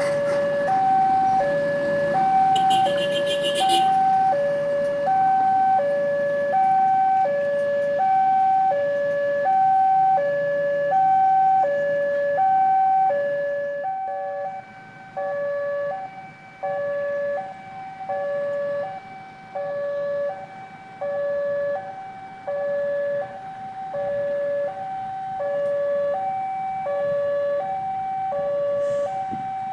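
Electronic warning alarm of an Indonesian railway level crossing, sounding a steady two-tone alternating signal, high then low, about one and a half seconds per cycle. It signals that the gates are closing or closed for an approaching train.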